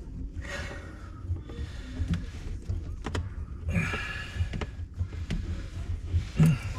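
Handling noise of hands and tools working in a sink cabinet: scattered clicks and knocks, two short scraping creaks, and a louder thump near the end.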